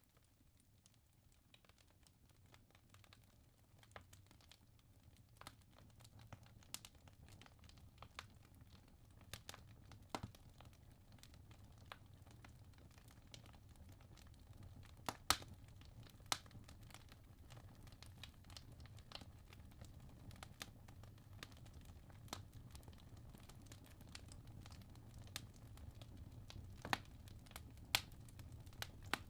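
Wood logs burning in a fireplace: irregular sharp crackles and pops over a low rumble of the flames, fading in over the first few seconds, with a few louder pops in the second half.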